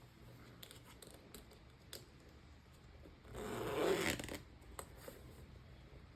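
A sling bag's zipper pulled once in a single rasping stroke of about a second, a little past the middle, with a few faint handling clicks around it.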